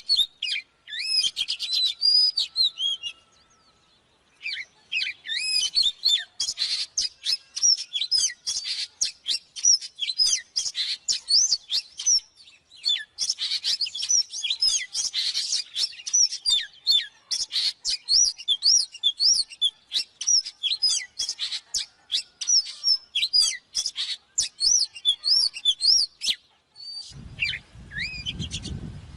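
Oriental magpie-robin song: rapid, varied whistled and chirping phrases of upswept notes, packed close together with one short pause about four seconds in. Near the end a low rumble of background noise comes in under the song.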